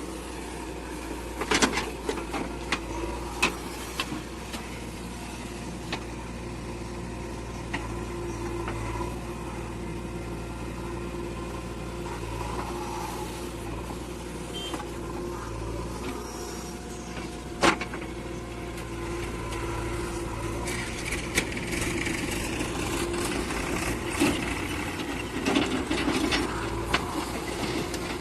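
JCB 3DX backhoe loader's diesel engine running steadily while it works, with several sharp knocks, the loudest about seventeen seconds in and more of them near the end.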